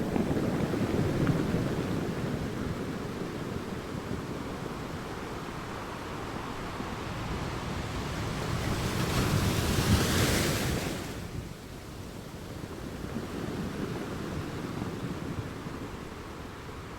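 Sea waves breaking and washing on the shore, with a larger wave crashing in a hissing surge about ten seconds in and then drawing back.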